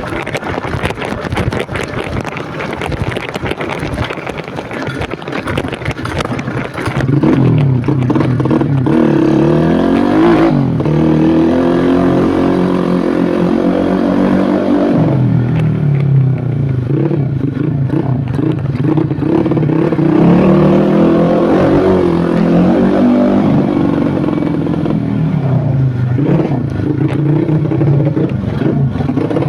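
Modified Yamaha Jupiter Z underbone motorcycle with its single-cylinder four-stroke engine enlarged to 130cc, running under way. Its pitch rises and falls several times with the throttle, and it gets louder about seven seconds in.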